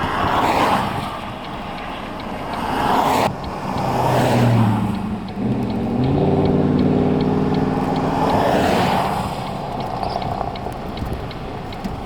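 Vehicles passing by on a road, each a rush of tyre and wind noise that swells and fades, with a vehicle engine humming through the middle of the stretch.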